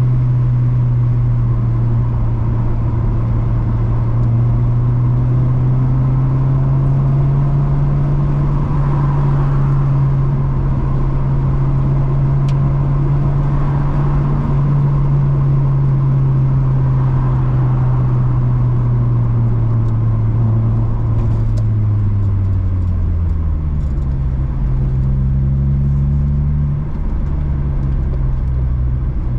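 Honda Civic EP2's 1.6-litre engine through an aftermarket cat-back exhaust, droning steadily while driving; about three quarters of the way through the pitch falls as the revs drop, then holds lower.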